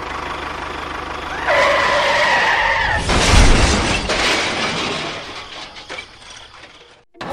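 A high screech lasting about a second and a half, then a loud crash with a deep rumble about three seconds in, fading away gradually, like a vehicle skidding and crashing.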